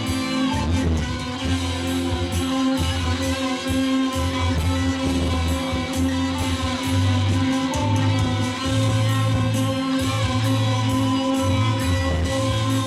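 Rock band playing a guitar-led instrumental passage, with the bass notes changing every second or so.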